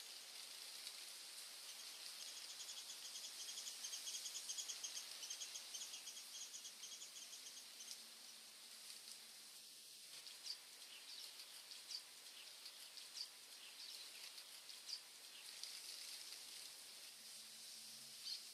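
Small birds singing: a fast, even trill of high notes for several seconds, then scattered short chirps over a faint background hiss.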